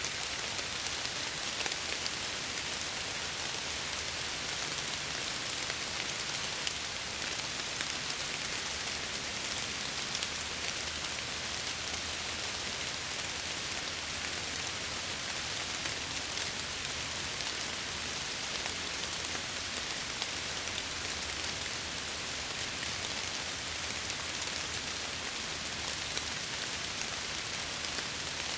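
Steady rain against window glass, an even hiss with many small drop ticks scattered through it.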